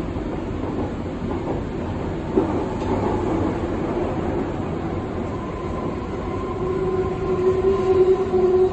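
Berlin U-Bahn train running on the U3 line, a steady rumble of wheels on the track. From about halfway through, a steady whine of several tones comes in and grows louder towards the end.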